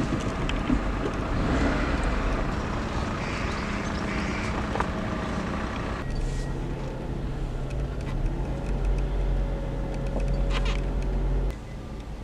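Steady low rumble of a car running, with a few faint clicks; the sound changes abruptly about six seconds in and drops suddenly near the end.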